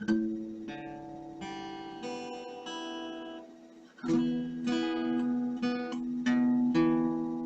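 Acoustic guitar being tuned by ear: single strings plucked and left to ring, the same two notes sounded again and again while their pitch is matched, with quicker, louder plucks from about four seconds in.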